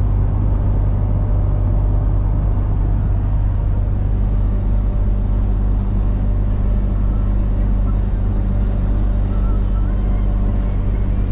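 A road vehicle cruising at a steady speed, its engine and road noise making an even, unchanging drone.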